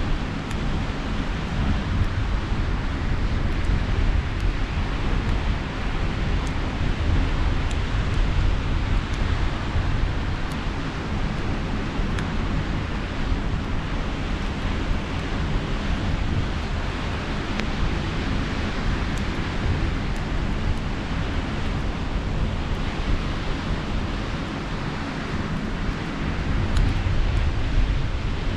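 Steady wash of sea surf with wind rumbling on the microphone, and a few faint scattered crackles from a campfire.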